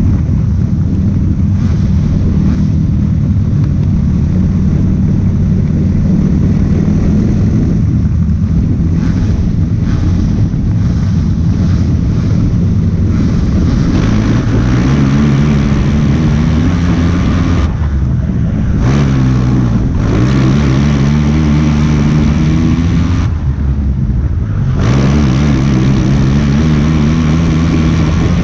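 Race car engine running hard at high revs, its pitch rising and falling, with the throttle easing off briefly twice in the later part before it pulls hard again.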